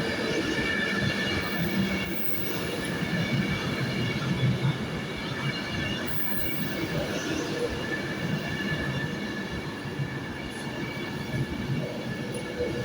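An 11-coach Avanti West Coast express train running into the platform, with a steady high-pitched squeal from its brakes and wheels over the rumble of the coaches.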